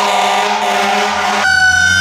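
Fire truck air horns blast and cut off about a second and a half in. A siren tone then comes back and slowly falls in pitch, the Whelen Xecutor electronic siren on its mechanical-siren tone.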